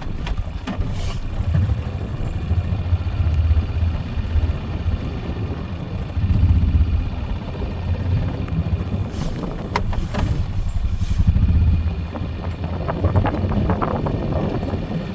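Four-wheeler (ATV) engine running under load, its sound swelling and easing several times, with a few short knocks.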